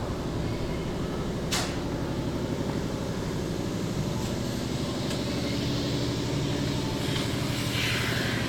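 Ford 460 big-block V8 in a 1969 Mustang drag car idling steadily on its first run, fired up on a donor carburettor. A brief, sharp, falling whistle cuts across it about a second and a half in.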